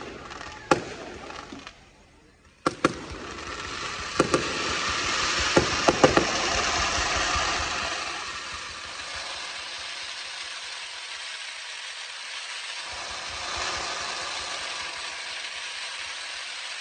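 Fireworks display: a few sharp bangs in the first six seconds, then a steady hiss that swells and slowly fades.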